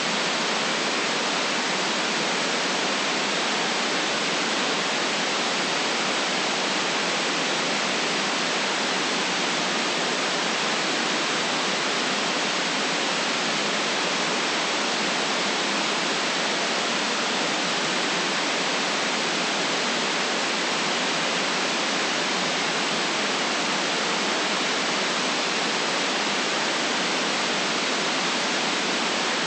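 Steady synthetic white noise: an even, unchanging hiss with the deep bass and the highest treble cut away.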